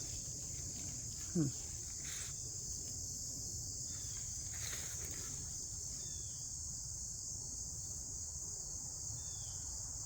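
Steady high-pitched chorus of insects shrilling from the woods, with a low rumble underneath. About a second and a half in, one short rising squeak stands out above it.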